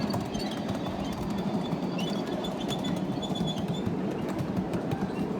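Miniature park railway train running, heard from aboard: a steady rumble of the wheels on the track with scattered light clicks.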